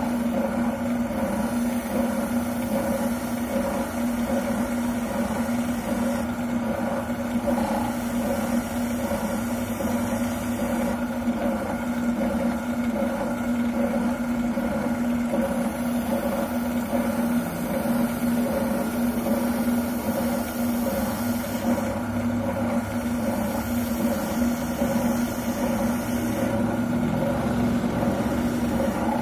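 Wilton oscillating sander running steadily with a constant motor hum, sanding a shotgun buttplate; a higher sanding hiss comes and goes every several seconds.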